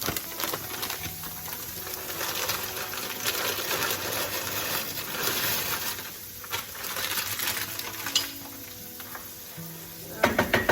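Stovetop cooking: sizzling and stirring with a steady hiss for about the first six seconds, then quieter, with a few sharp clinks near the end.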